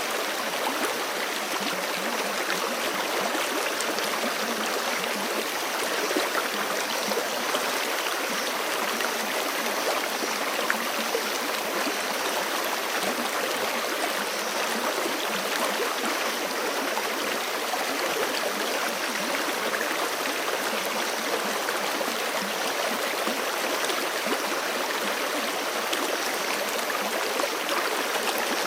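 Forest creek flowing steadily over rocks, a continuous rushing and gurgling of water with small splashes.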